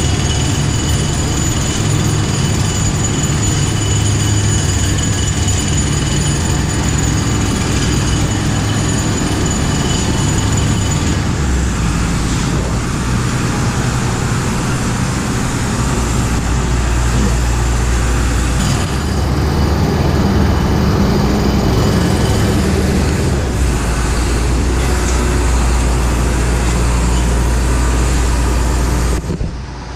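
Loud, steady vehicle noise: a continuous low rumble with a faint high whine over it in the first half, dipping briefly near the end.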